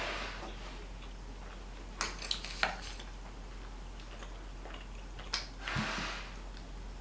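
Close-up eating and food-handling sounds: a few sharp clicks and crinkles about two seconds in, with soft rustling near the start and again about six seconds in.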